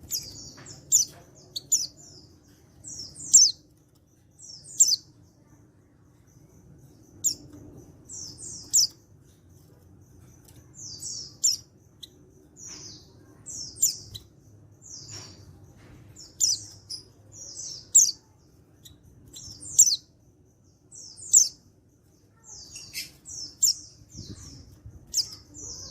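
Male white-eye (pleci) calling: short, high, sharp chirps, often two or three together, repeated every one to two seconds. A faint steady low hum runs underneath.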